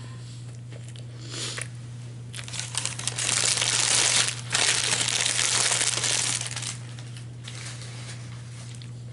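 Paper food wrapping being crinkled and crumpled by hand: a short rustle, then a few seconds of loud crinkling in the middle, over a steady low hum.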